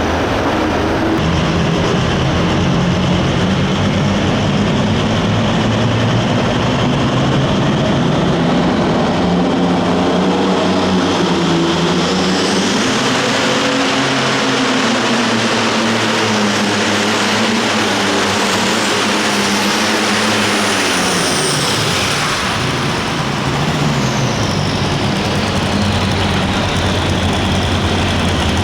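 Light limited super stock pulling tractor's turbocharged diesel engine running loud at full throttle under load, with a high turbo whine rising over the engine note. About 21 seconds in, the engine note and whine fall away as it comes off throttle.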